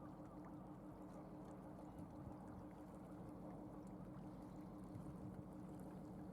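Cargo ship's engine running, heard faintly as a steady low hum.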